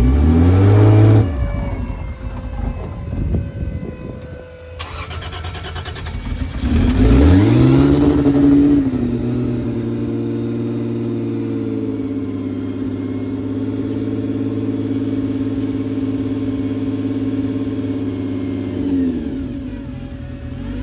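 A car engine revs up sharply twice, a few seconds apart, then runs steadily at a raised idle. Near the end it drops lower in pitch.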